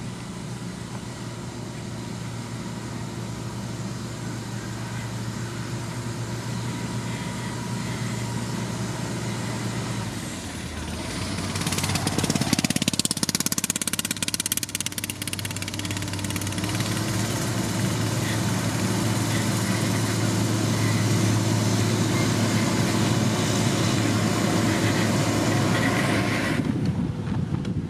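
Heavy diesel road-construction machinery running steadily, getting louder about twelve seconds in, with a few seconds of dense noise soon after; the high hiss drops away abruptly near the end.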